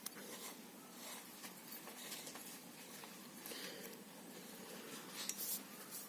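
Faint scraping and small clicks of a fire-extinguisher valve being screwed by hand into a steel air tank, its threads coated with clear silicone, with a couple of brief louder scrapes after the middle.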